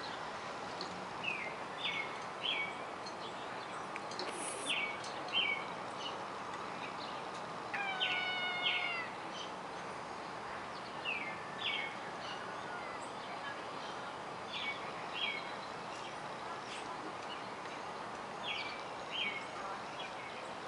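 Bird calls: a short two-note chirp repeated every few seconds, with one longer, lower call about eight seconds in, over steady background noise.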